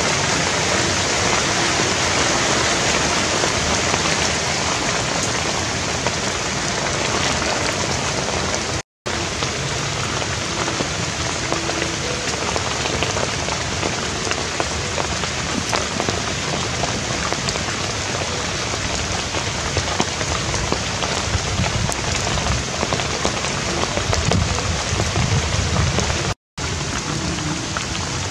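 Heavy rain falling steadily on a thatched shelter and wet wooden planks, an even hiss of drops. The sound cuts out completely twice for a split second.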